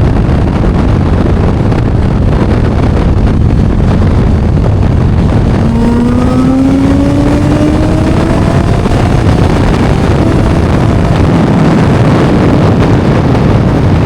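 Heavy wind buffeting the microphone, a loud, steady rumbling roar. About six seconds in, a faint pitched tone rises slowly for about three seconds beneath it.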